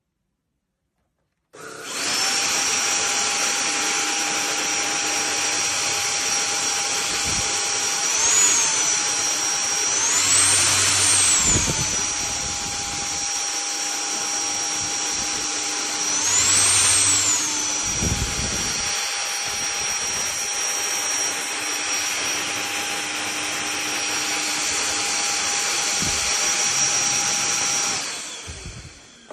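Cordless stick vacuum cleaner running with a steady high motor whine over a rush of airflow, starting about two seconds in. Its pitch rises and falls back a few times, most strongly twice in the middle, and the sound dies away near the end.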